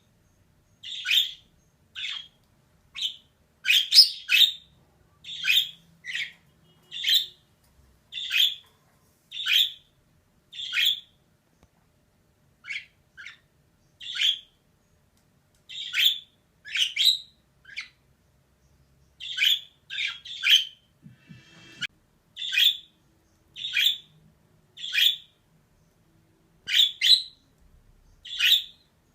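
Female budgerigar giving short, sharp chirping calls, roughly one a second, with a few brief pauses.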